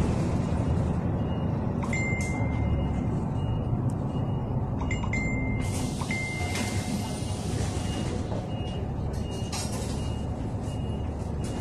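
Inside a moving city bus: steady engine and road rumble, with a few short high beeps a couple of seconds in and again around five seconds, and a hiss of air about halfway through.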